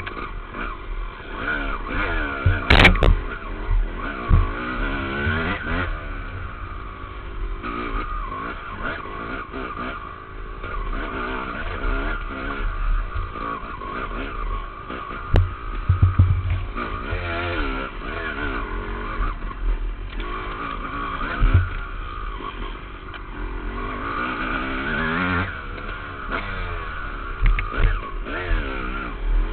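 Dirt bike engine revving up and falling back again and again as the rider works the throttle around an off-road trail loop, picked up by a helmet-mounted camera. A few sharp knocks come from the bike hitting bumps, the loudest a few seconds in.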